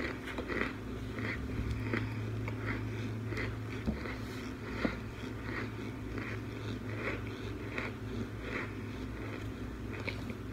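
Chewing of crunchy frozen baked pot chunks, a soft crunch roughly once or twice a second, over a steady low hum.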